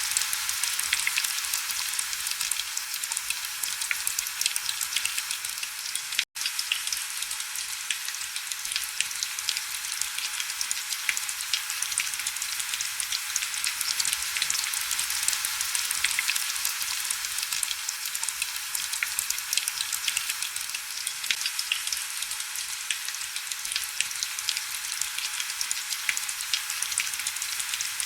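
Heavy rain on window glass: a dense, steady crackle of countless small drops, with little low rumble. The sound drops out completely for an instant about six seconds in.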